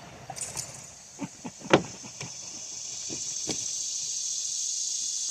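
Small clicks and taps of screws and plastic parts being handled while fitting screws on a chainsaw, with a steady high-pitched hiss that slowly grows louder.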